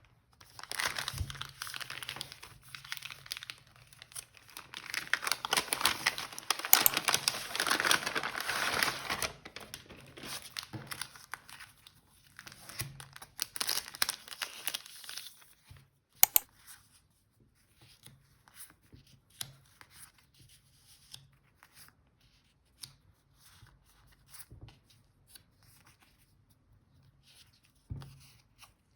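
Packaging being torn open and crinkled by hand: dense rustling for about fifteen seconds, loudest in the middle of that stretch. Then a sharp click and scattered light taps and small rustles.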